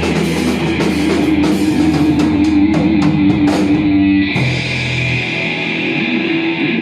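Rock band playing an instrumental passage on electric guitar and drum kit. About four seconds in, the drumming stops and a held chord rings on.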